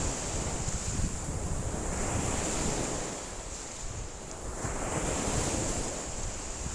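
Wind-driven lake waves washing and breaking in surges that swell and ease, with strong wind buffeting the microphone as a low rumble. A steady high hiss runs underneath.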